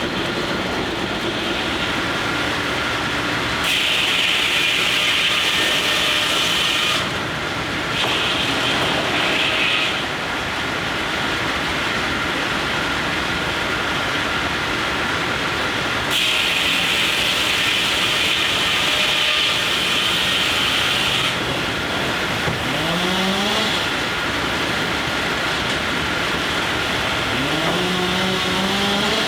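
Steam-powered sawmill running, its saw blade cutting into logs three times with a high-pitched whine over the steady clatter of the mill, the longest cut lasting about five seconds. Twice near the end a tone rises steeply in pitch.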